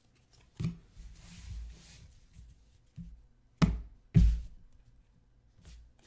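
Handling of trading cards and packs on a tabletop: a handful of separate dull knocks and thuds, the two loudest close together a little past the middle, with a short rustle about a second in.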